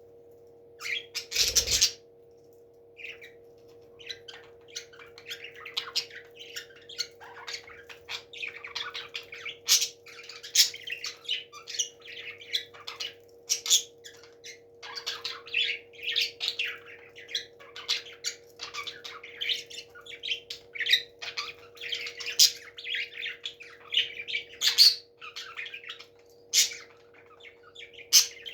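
Parrots chirping and squawking in quick, overlapping short calls, with one loud sharp burst about a second and a half in. A faint steady hum runs underneath.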